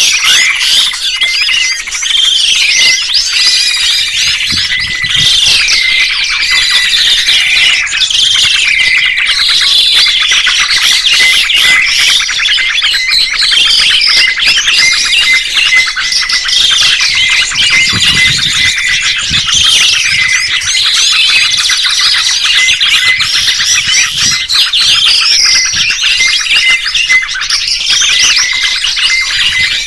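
Dense songbird chirping and twittering: several fast, looping calls overlap continuously, with no pause.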